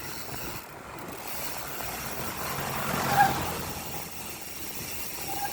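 A motor vehicle passing on the road. Its engine and tyre noise build to a peak about three seconds in, then fade.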